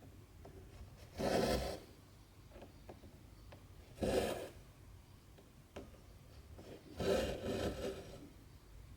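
Cotton embroidery thread pulled through 14-count cross-stitch fabric: three pulls about three seconds apart, the last one longer. Faint ticks come in between.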